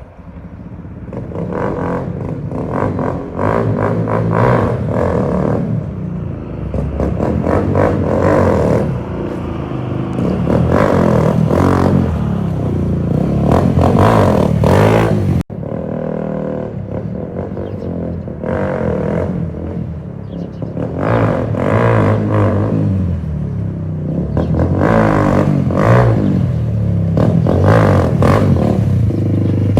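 Motorcycle engine running and being revved repeatedly, its pitch rising and falling, with a short break about halfway through.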